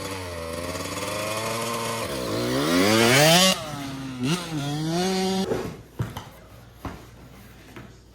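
Small dirt bike engine revving up and down several times, with its sharpest, loudest rise about three seconds in. It cuts off abruptly about five and a half seconds in, and a few light clicks follow.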